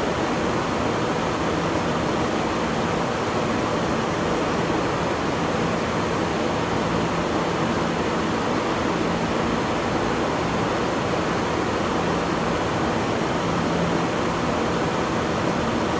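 Steady hiss-like rushing noise with a faint low hum that comes and goes.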